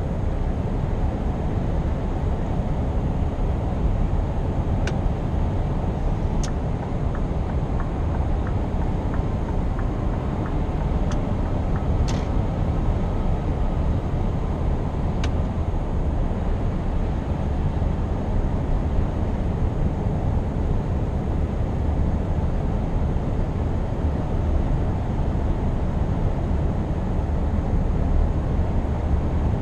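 Scania R520's 16-litre V8 truck engine and road noise: a steady low drone while cruising, with a few faint clicks in the first half.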